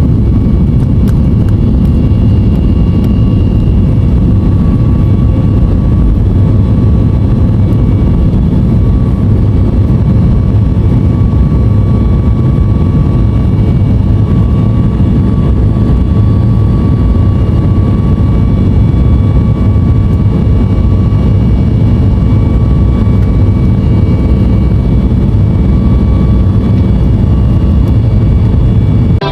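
Jet engines of a Boeing 737-8200 airliner running, heard from inside the cabin: a steady, loud rush of noise with faint, level whining tones.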